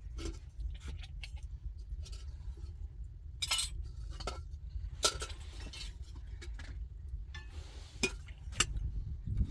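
Glasses and dishes clinking and knocking together as tea and breakfast things are handled: scattered light knocks with a few sharper clinks, over a steady low rumble.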